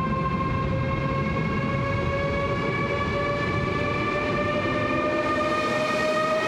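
ICE 3 high-speed electric train rolling slowly into a station: a whine of several tones from the traction equipment, slowly rising in pitch, over a low rumble of wheels on the rails.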